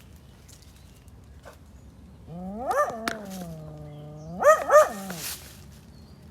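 An anxious dog vocalizing: a long, drawn-out whining howl that rises, holds on a low note, then pitches up twice in quick yips before falling away.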